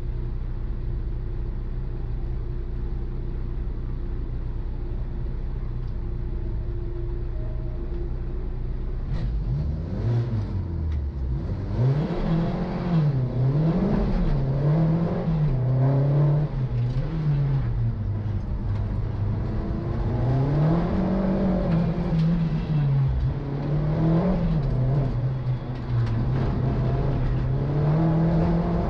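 Renault 11 Turbo's turbocharged four-cylinder engine heard from inside the cabin. It runs steadily for about the first nine seconds, then accelerates away, and its note rises and falls over and over as the car is driven hard.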